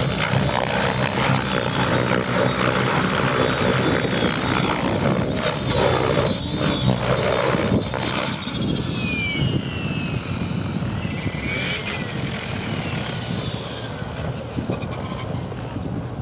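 Radio-controlled model helicopter flying aerobatics: rotor and motor running loud and steady at first, then, about halfway through, a high whine sweeping up and down in pitch as the machine manoeuvres.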